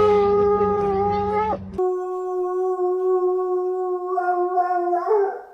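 A dog making long, steady, howl-like whines: one held note, then a slightly lower one held for about three seconds that wavers and breaks off near the end.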